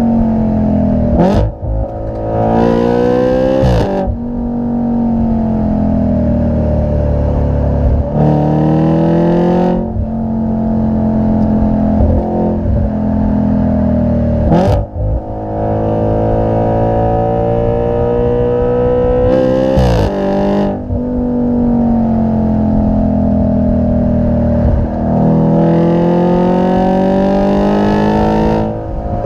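2013 Audi RS 5's 4.2-litre V8 running through a Capristo exhaust, revving up several times. Each climb in pitch ends in a sudden drop, with steadier running in between.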